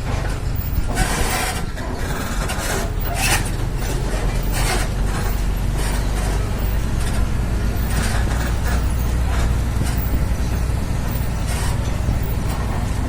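Scania P380 truck's diesel engine running steadily while hauling a heavy bulldozer on a lowboy trailer, a deep continuous drone. Several brief hissing or rattling bursts sound over it.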